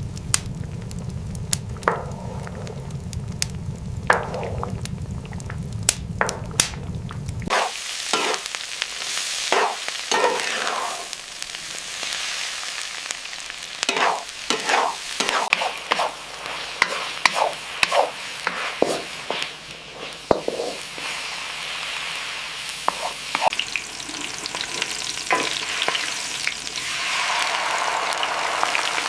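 Food sizzling in a pan, with repeated clicks and scrapes of a utensil stirring. A low rumble sits under the first several seconds and stops abruptly.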